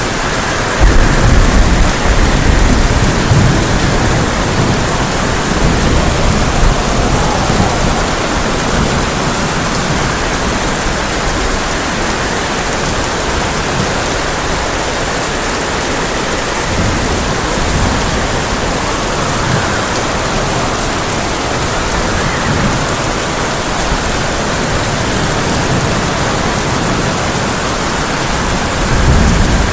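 Heavy rain falling on a tin roof, a steady dense hiss, with a loud roll of thunder starting about a second in and fading over a few seconds; a second, smaller rumble of thunder swells near the end.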